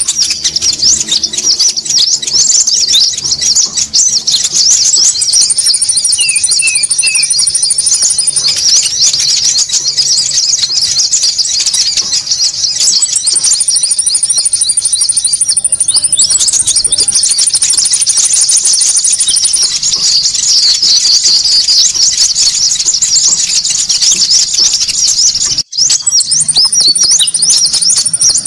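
Dense, busy chorus of high chirps from many small birds, with a rapid, even trill above them that starts and stops in several stretches: a looped bird-lure (pikat) recording of konin calls. A split-second gap cuts through it near the end.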